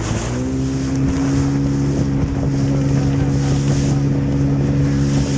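Motorboat engine running under way at steady cruising revs. The engine note dips briefly right at the start, picks up again, then holds steady.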